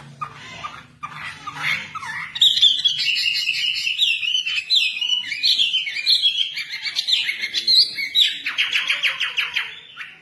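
Wambi bird singing loudly in a fast run of varied chirps and whistles, turning near the end to a rapid trill.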